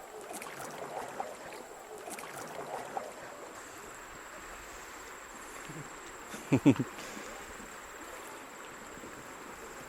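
Creek water running steadily around a kayak, with faint distant voices in the first few seconds. About six and a half seconds in, two or three loud hard knocks come close together.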